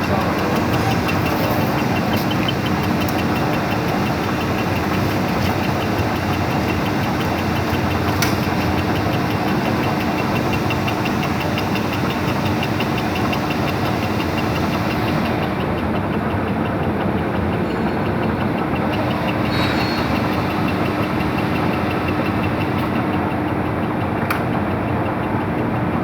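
Machinery running steadily and loudly, a dense even noise with a constant hum through it and a fine rapid ticking on top.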